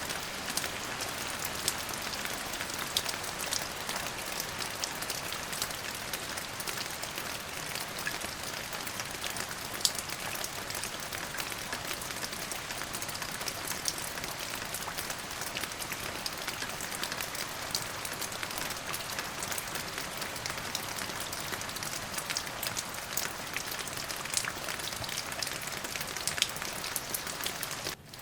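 Steady rain falling, a dense even hiss with many separate drops ticking on a surface. The sound dips briefly just before the end.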